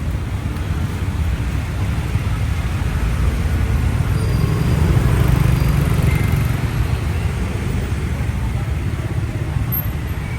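Steady low rumble of a motorcycle ride through city traffic, growing a little louder around the middle.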